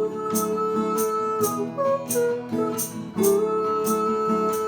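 Acoustic guitar strummed in a steady rhythm, under a woman singing long wordless "ooh" notes, one near the start and another from about three seconds in.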